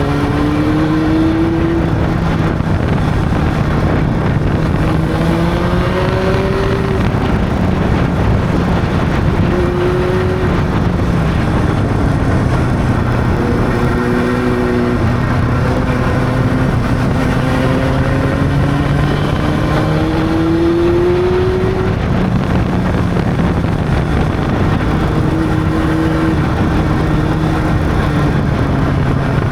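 Honda CB600 inline-four motorcycle engine under way, its pitch rising again and again as the bike accelerates and eases off, over a steady rush of wind and road noise.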